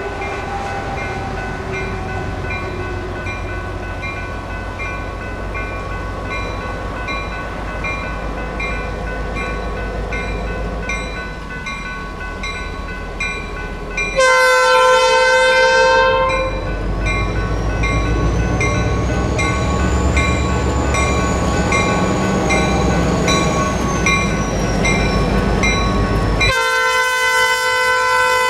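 Diesel locomotive's multi-note horn sounding two blasts, a short one about halfway and a long one starting near the end, over a low engine rumble that grows louder after the first blast. Under it all runs a steady ringing with evenly spaced ticks.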